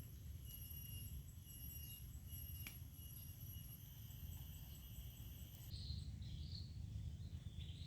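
Insects trilling steadily in a high pitch, cutting off about three quarters of the way through, after which short bird chirps are heard. A low rumble and a single click sit underneath.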